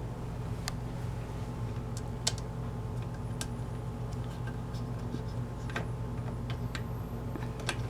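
Scattered light clicks and taps of a screwdriver and screws as the dishwasher's water inlet valve is screwed onto the frame, irregular and a second or more apart, over a steady low hum.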